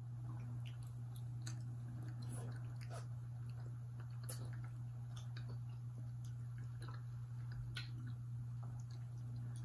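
Close-up mouth sounds of chewing soft, sticky mango mochi ice cream: small wet smacks and clicks at irregular intervals, over a steady low hum.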